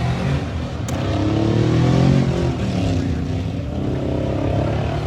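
Car engine revving, its pitch rising over the first couple of seconds and then falling away.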